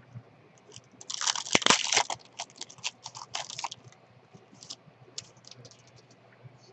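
Trading cards and their foil pack wrapper being handled: a dense crinkling and rustling burst about a second in, then scattered clicks and rustles that thin out.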